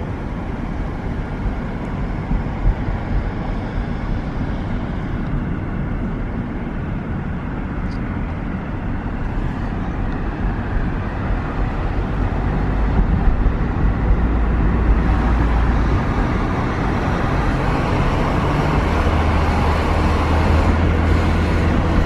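Road and engine noise inside a moving car: a steady rumble and tyre hiss with a low drone, getting a little louder about halfway through.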